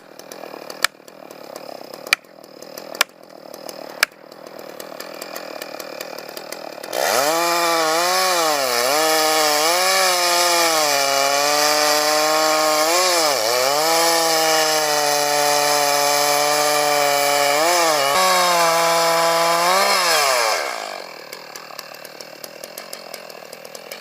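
Two-stroke chainsaw revved to full throttle for about thirteen seconds while cutting into a tree, its pitch dipping briefly several times as the chain bogs in the wood. It then falls back as the throttle is released. Before it, a few sharp clicks sound over the low idle.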